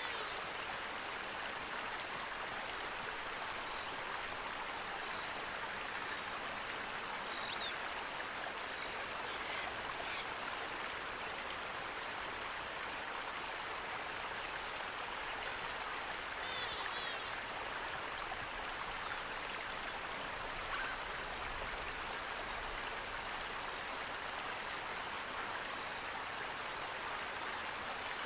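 Running water rushing steadily, like a stream over rocks, with a few faint bird chirps high above it, the clearest about a third of the way in and just past halfway.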